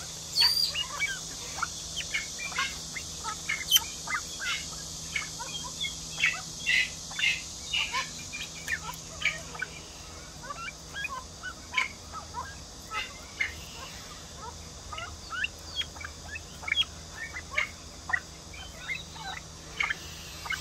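Birds in a pheasant pen chirping: many short calls, several a second and unevenly spaced, over a steady high hiss.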